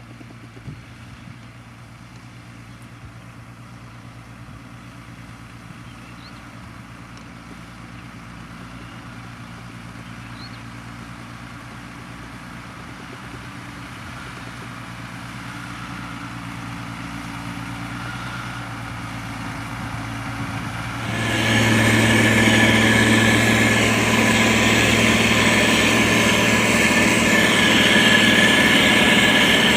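Diesel engine of a SANY STG190C-8S motor grader running steadily and growing slowly louder. About two-thirds of the way in it turns suddenly much louder and harsher.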